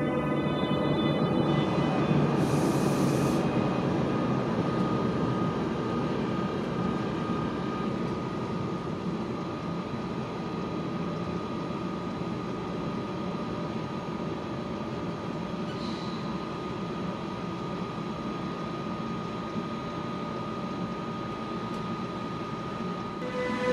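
A train passing close by on the main line: a continuous rolling rumble of wheels on rails, loudest about two seconds in and then holding steady, with a thin steady tone over it.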